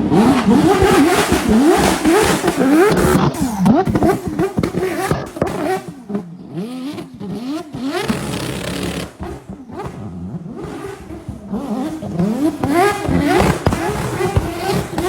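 A vehicle engine revved in quick repeated blips, its pitch rising and falling over and over. It thins out in the middle and picks up again near the end.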